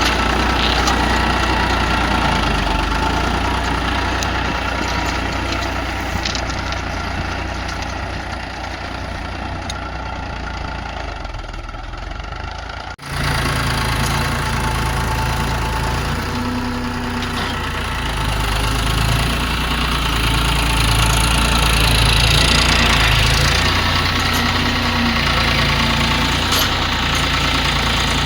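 Tractor engine running steadily. About halfway through the sound cuts out for an instant and comes back louder.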